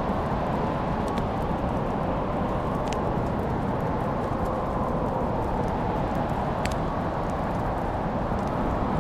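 Wood fire burning in a fireplace: a steady low rumble with scattered sharp crackles and pops, the clearest about three seconds in and near seven seconds.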